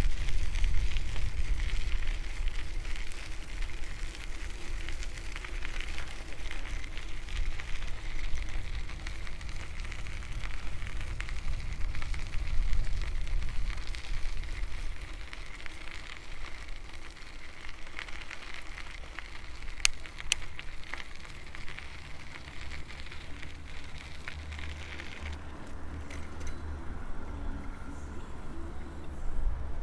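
Bicycle tyres rolling along a path with a steady crackling hiss, over a low rumble of wind on the microphone. About 25 seconds in, the high crackle drops away suddenly.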